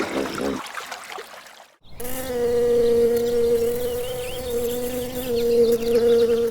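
Steady insect buzz of unchanging pitch, starting about two seconds in after a short gap and lasting nearly five seconds.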